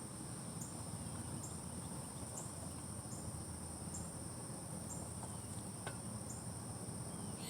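A steady high-pitched insect chorus, crickets trilling, with short pulses repeating about every three-quarters of a second over a continuous trill, and a low rumble underneath.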